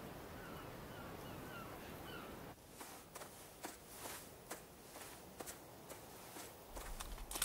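Outdoor wind ambience with a bird calling in short repeated notes, about three a second. It cuts off suddenly, and quieter air follows with scattered small clicks and rustles of headphones being handled and put on.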